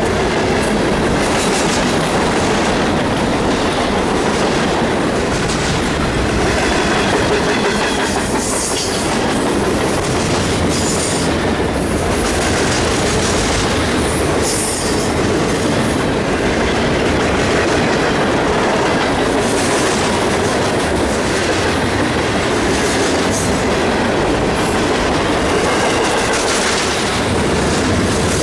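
Freight train cars rolling steadily past close by: wheels clicking over the rail joints, with brief high wheel squeals now and then.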